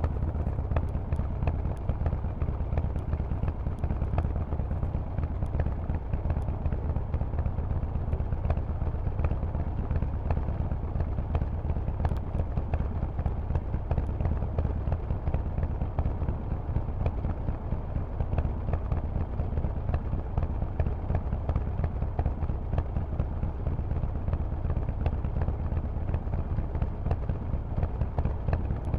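Harley-Davidson Sportster Forty-Eight's air-cooled 1200 cc V-twin running through a loud Vance & Hines aftermarket exhaust while the bike is ridden, a steady deep, fast-pulsing exhaust note with no big revs.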